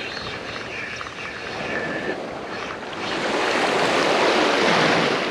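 Small waves washing at the shoreline, with one wave surging louder about three seconds in and fading near the end.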